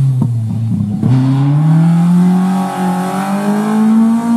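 Rally car engine under hard acceleration, with a few sharp crackles in the first second. About a second in the revs drop at a gear change, then climb steadily.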